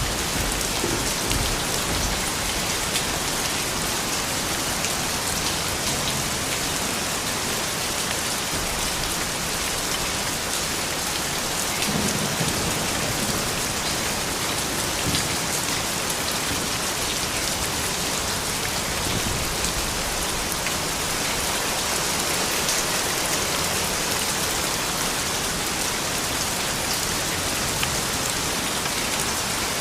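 Steady, soft rain falling, an even hiss with scattered individual drop ticks.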